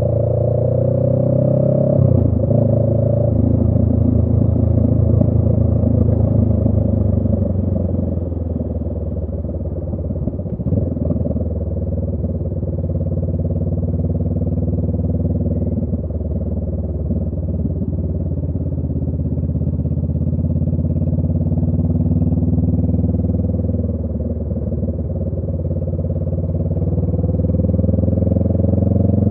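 2018 Honda Rebel 500's parallel-twin engine running through a Radiant Cycles Shorty GP aftermarket exhaust while riding. The engine note shifts about two seconds in and again around ten seconds in, then climbs near the end as the bike accelerates.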